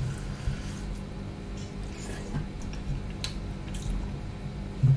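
Close-up eating sounds: wet chewing of a mouthful of rice and dal, with soft squishing and small clicks as fingers knead rice on a steel plate. There is a louder low thump near the end.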